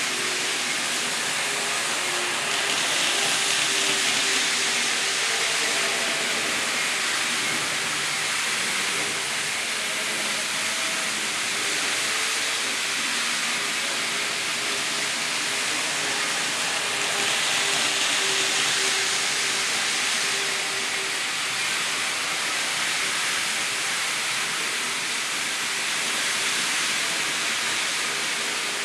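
N-scale model train running around the layout: a steady rushing hiss of small wheels on the rails with a faint motor whine, swelling twice, about three seconds in and again about seventeen seconds in.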